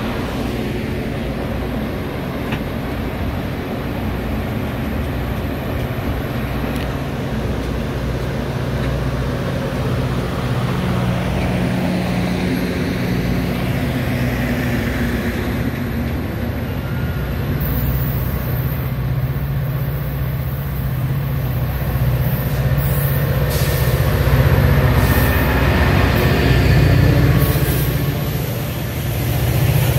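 Metra bilevel commuter train pulling away, its coaches rolling past with steady wheel-on-rail noise, then the diesel engine of the F40PHM-3 locomotive pushing at the rear growing louder as it comes alongside in the second half.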